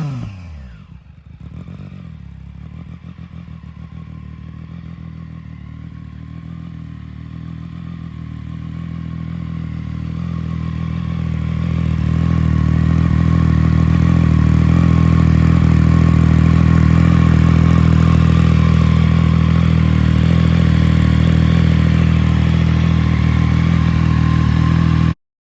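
Triumph Trident 660's three-cylinder engine through an HP Corse slip-on exhaust, dropping back from a throttle blip to a steady idle. The idle grows louder over a few seconds midway, holds, and cuts off suddenly near the end.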